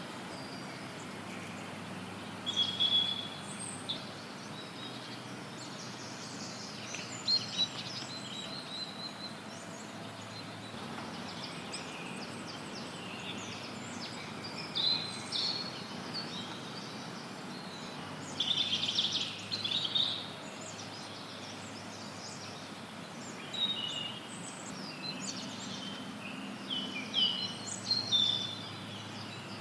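Wild birds singing and chirping in short bouts every few seconds, over a steady hiss of added noise.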